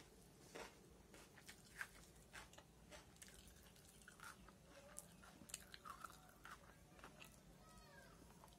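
Faint chewing of a mouthful of chicken biryani eaten by hand, with many small irregular clicks of the mouth.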